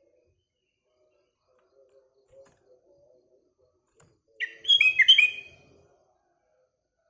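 Sooty-headed bulbul (kutilang) giving a short burst of about five quick, bubbly, down-slurred notes a little over four seconds in. A faint low warble runs underneath.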